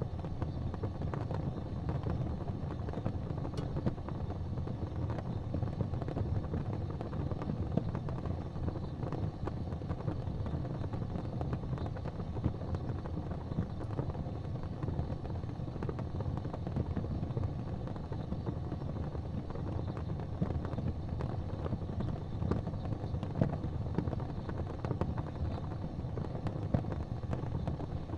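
Wood fire burning in a fireplace: a steady low rumble of flame with continual small crackles and a few louder pops.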